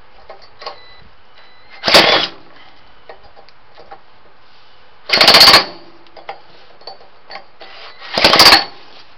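Three short bursts of cranking, each about half a second, from a homemade starter spinning a small Briggs & Stratton-based engine with a JB Weld cylinder on full choke. The starter's rattle covers the engine, which is only kicking, not starting.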